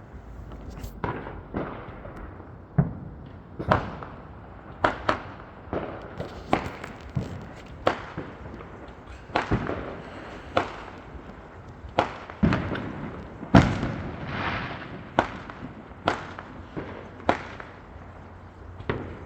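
Fireworks going off in a steady barrage: sharp bangs at uneven intervals, about one or two a second, some with a short echo after them, the loudest about two-thirds of the way through.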